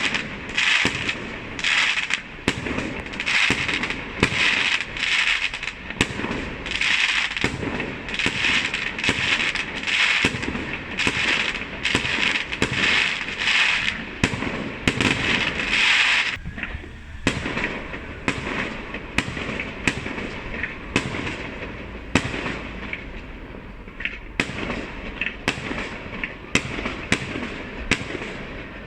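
Fireworks going off in quick succession: a stream of sharp bangs over a dense crackling, thinning out after about sixteen seconds into more scattered bangs.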